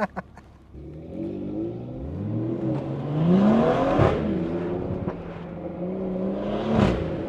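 A car engine revving up hard, the pitch climbing for about two seconds and then holding high. There is a sharp crack about four seconds in and another near the end.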